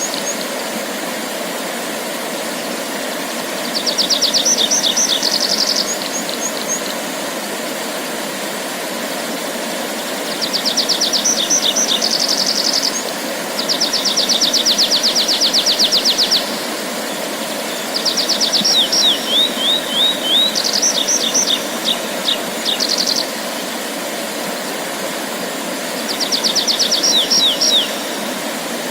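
A songbird singing short, rapid, high trilled phrases, each about two to three seconds long, repeated every few seconds, about six times, over a steady low background rumble.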